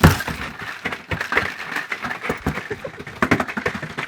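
A freshly landed mahi-mahi thrashing and flopping on a boat deck: a heavy thump at the start, then rapid, irregular slaps and knocks.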